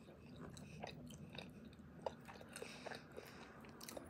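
A person chewing a mouthful of soft food (carne, sweet plantain, crema, rice and beans), heard as a faint run of many small mouth clicks and smacks.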